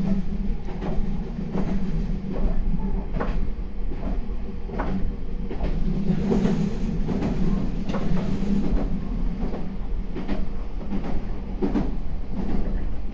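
Meitetsu 4000 series electric train running at speed, heard from inside the car: a steady low rumble and hum, with the wheels knocking over rail joints at irregular intervals.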